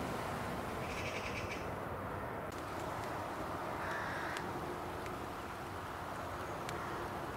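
Woodland ambience: a steady outdoor hiss with birds calling, including a short harsh rasping call about a second in and a fainter call near four seconds.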